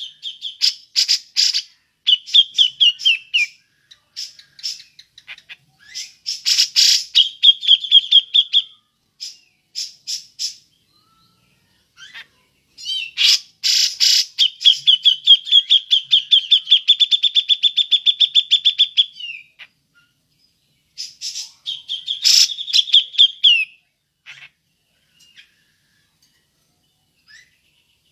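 Cucak jenggot (brown-cheeked bulbul) calling in the 'ngepik' style: sharp clicking notes and short, fast trills in separate phrases with pauses between. About halfway through comes one long rapid trill lasting around five seconds.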